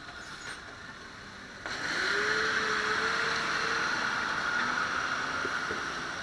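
Road noise during a bicycle ride: a loud rush of passing traffic or tyre noise starts suddenly about a second and a half in, with a faint whine that rises slightly, and eases off near the end.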